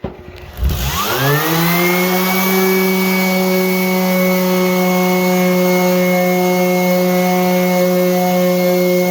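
An electric motor spinning up from standstill, its whine rising over about a second, then running steadily at full speed with a constant hum and hiss.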